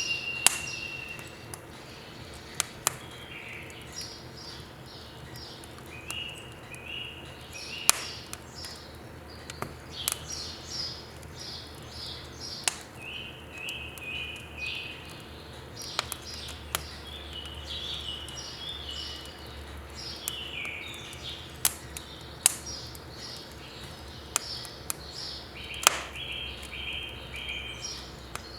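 Birds singing in repeated runs of short high chirps. Over them come sharp cracks every second or two, the popping of firewood burning in a wood stove.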